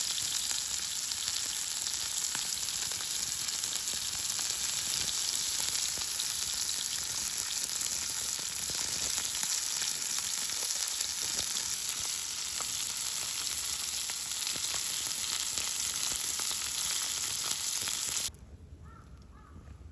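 Food sizzling in a hot pan: a steady frying hiss with fine crackles. It cuts off abruptly near the end.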